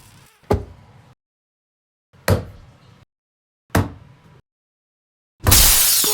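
Three heavy knocks about a second and a half apart, then a loud crash near the end.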